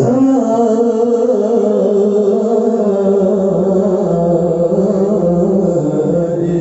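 A man's voice reciting the Quran in melodic mujawwad style, holding one long sustained note that steps a little lower near the end.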